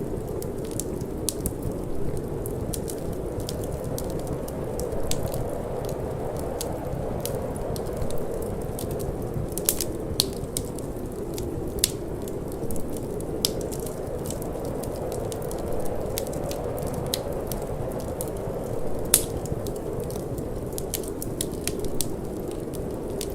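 Wood fire in a fireplace crackling, with irregular sharp pops and snaps, the loudest about two-thirds of the way through, over a steady low rush of cold wind.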